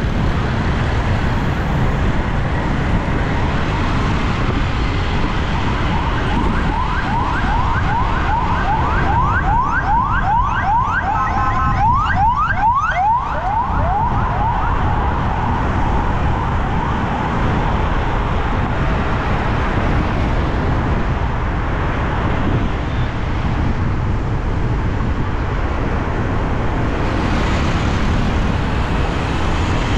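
Emergency-vehicle siren in a fast yelping pattern, a quick run of rising sweeps repeated several times a second, for several seconds around the middle. Steady road traffic noise runs underneath.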